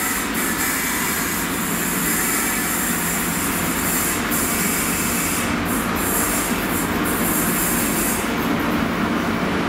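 Class 43 diesel power car of a High Speed Train rolling slowly into the platform, its engine running with a steady drone over the rumble of wheels on the rails.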